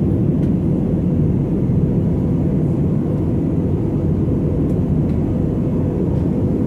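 Airbus A320 cabin noise in flight: the steady low drone of the engines and the airflow, with a few faint ticks.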